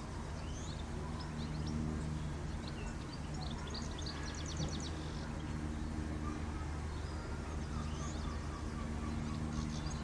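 Small birds chirping and twittering, with a quick trill about halfway through, over a steady low hum.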